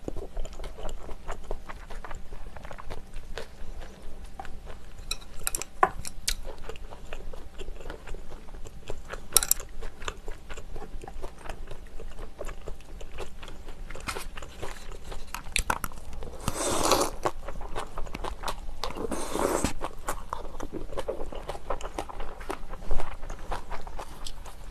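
Close-miked chewing and biting of spoonfuls of rice soup with kimchi: a steady run of small wet mouth clicks and crunches. About two-thirds of the way through come two louder bursts of about a second each, a few seconds apart.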